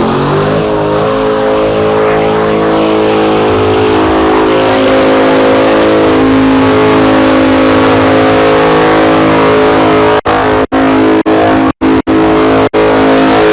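Performance car engine revved up and held at steady high revs through a burnout, with tyre noise over it. The sound briefly cuts out several times near the end.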